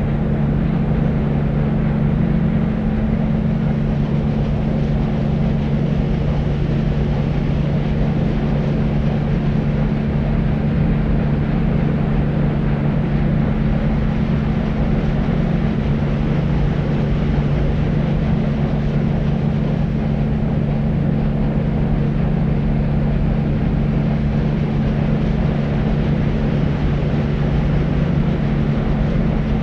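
Deep white noise for sleep: a constant, unchanging low rumbling hiss with a steady low hum inside it and little treble.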